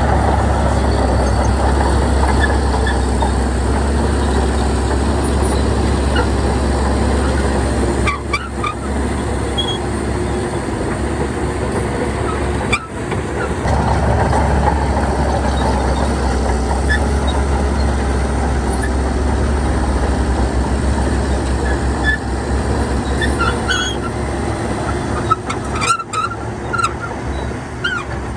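Bulldozer's diesel engine running steadily and loudly with a deep hum, dropping briefly a few times.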